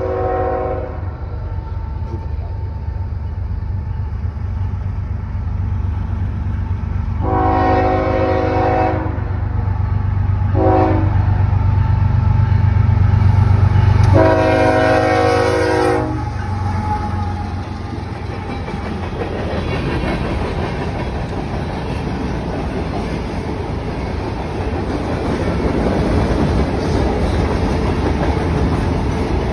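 CSX freight locomotive sounding its horn for a grade crossing: the tail of one blast at the start, then a long, a short and a long blast, over a diesel rumble that is loudest as the locomotive passes about halfway through. Then loaded grain hopper cars roll by with a steady rumble of wheels on rail.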